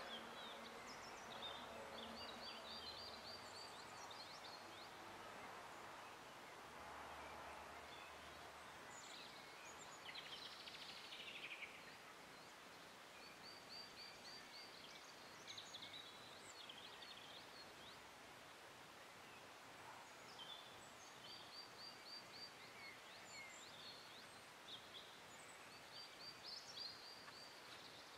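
Faint birds calling: short rapid trills that come back every several seconds, and a falling chirp about ten seconds in. An insect buzzes briefly in the first few seconds.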